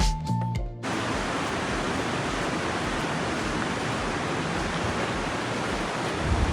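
Steady rush of a mountain river flowing nearby. It follows a brief tail of background music that cuts off under a second in.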